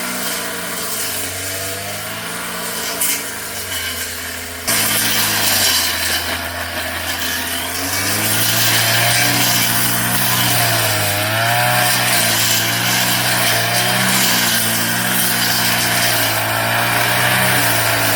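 Brush cutter engine running under load as it cuts through weeds, its pitch wavering up and down; it jumps louder about five seconds in.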